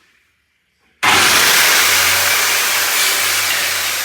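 A loud, steady motor-driven machine running, cutting in abruptly about a second in after near silence and easing slightly in level, with a hiss over a low hum.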